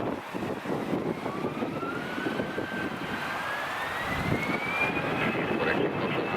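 Jet airliner engines running, a noisy rumble with a thin whine that rises in pitch over about three seconds and then holds steady.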